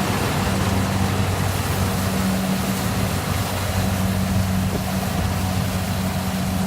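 Rice combine harvester's engine running steadily, a constant low hum under a broad mechanical noise.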